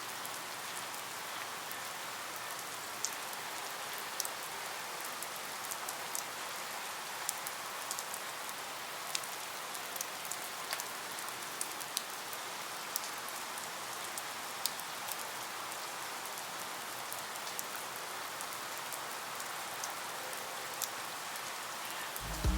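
Steady rain falling, with scattered sharp ticks of single drops hitting a surface.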